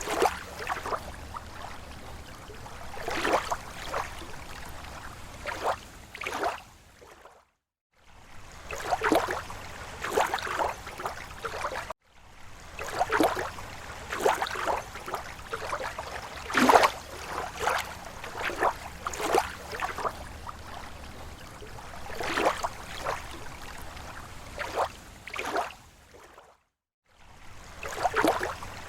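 Small waves lapping against a lake shore: irregular slaps and splashes of water every second or so. The sound fades out to silence for a moment twice.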